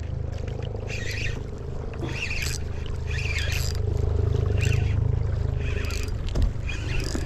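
Fishing reel being cranked to bring in a hooked catfish, in short rasping whirs about once a second over a steady low rumble.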